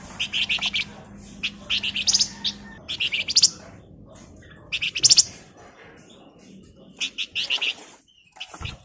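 Javan fulvetta (flamboyan, wergan Jawa) singing in short, rapid high-pitched trilled phrases, about five bursts with short pauses between them.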